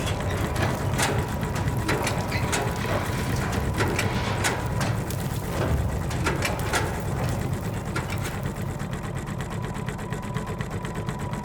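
A small electric motor running steadily with a low hum, with scattered sharp clicks and ticks over the first half or so.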